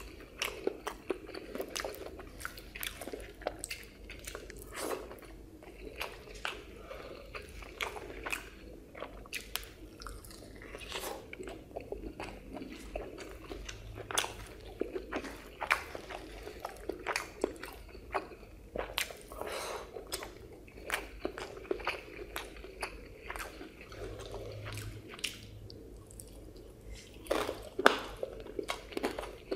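Close-miked chewing and mouth sounds of a person eating rice with egg curry, cauliflower and fried fish by hand: irregular smacks and clicks.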